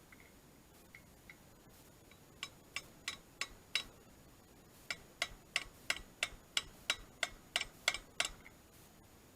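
Short, sharp clicks at about three a second, a run of five followed after a short pause by a run of about eleven, from hand work on the brush cutter's parts.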